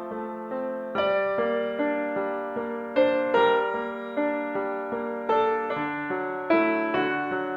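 Gentle piano music: a melody of struck notes and chords, each fading after it is played, a new note about every half second to a second.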